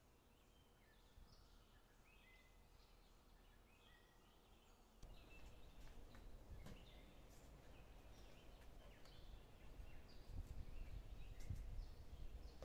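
Birds chirping and singing faintly in short calls. From about five seconds in, a low rumble and a few light clicks and knocks come in under the birdsong.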